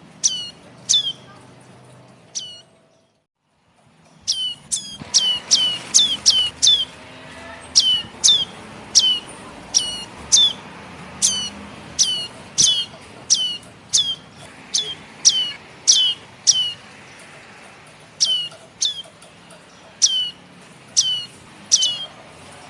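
Begging calls of young prenjak kepala merah (prenjak atas) birds: short, sharp chirps that sweep steeply down in pitch, repeated about two a second in an insistent string, with a brief full silence about three seconds in.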